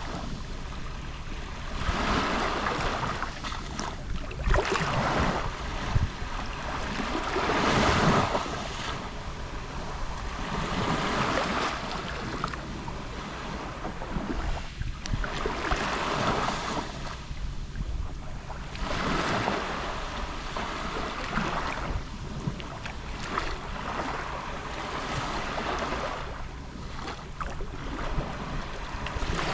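Small sea waves lapping and washing onto the shore, a swell of hissing wash every three to four seconds. A steady low rumble of wind on the microphone runs under it.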